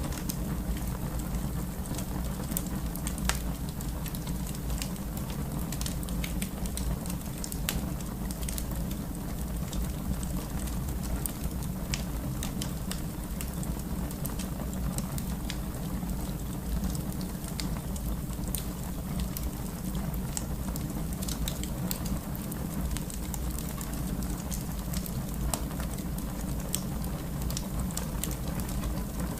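Wood fire burning in a fireplace: a steady low rumble of flame with many small crackles and pops scattered irregularly through it.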